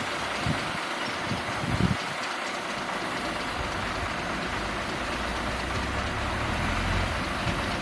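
Earthmoving machine's engine running steadily, with a few low knocks early on and its low note growing stronger about halfway through.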